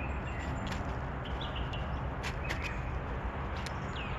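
Wild birds chirping, short high calls scattered throughout, over a steady low outdoor background noise.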